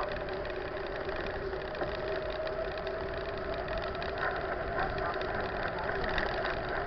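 Steady mechanical hum with a couple of faint, unchanging tones under a light noise bed, holding level throughout.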